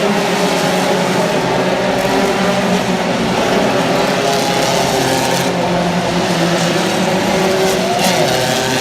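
Several racing engines running together at high revs in a steady, dense drone, with one rising in pitch about eight seconds in.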